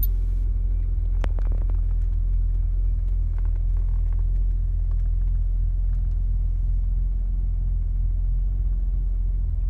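1986 BMW 745i's straight-six engine idling steadily after a cold start, a deep even hum with no revving. A brief click sounds about a second in.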